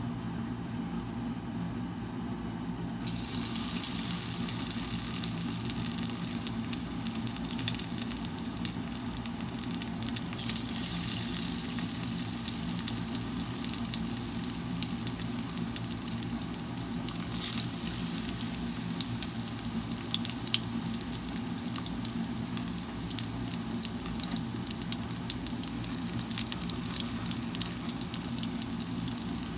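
Cheese gyoza in wonton wrappers frying in a pan: a dense sizzling crackle sets in about three seconds in and keeps going, over a steady low hum.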